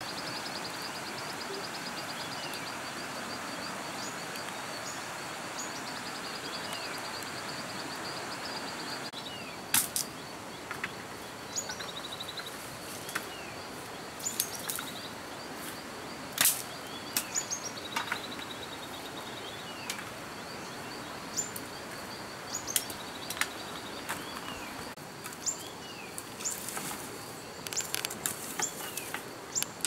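Birds chirping with short repeated calls and a trill over a steady outdoor hiss. From about ten seconds in, scattered sharp snaps and cracks of dry bamboo stalks and brush being handled and stepped on.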